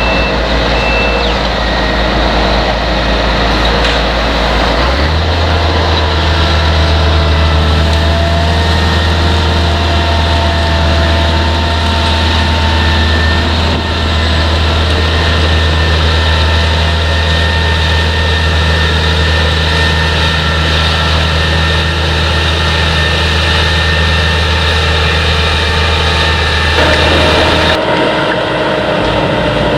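Heavy potato-harvesting machinery running steadily: a deep engine drone with several steady whining tones over it. The engine note rises about five seconds in and drops back near the end.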